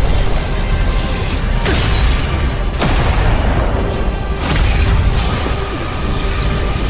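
Animated-battle soundtrack music mixed with booming explosion and energy-blast effects, with sudden surges about one and a half, three and four and a half seconds in.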